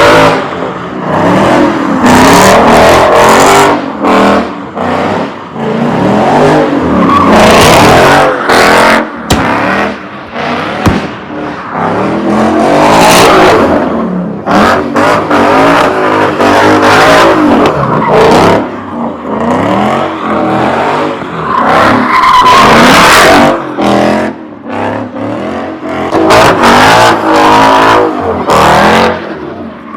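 Car doing donuts or a burnout: the engine revs up and falls back again and again while the tires squeal against the pavement.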